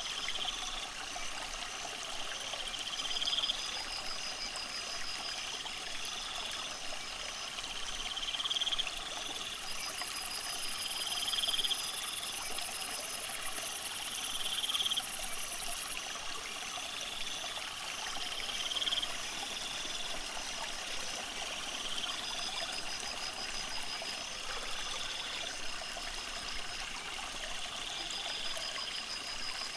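Steady trickle of running water, with insects calling over it: short rising chirps repeating every two to three seconds, and a loud, high buzzing trill from about nine to sixteen seconds in.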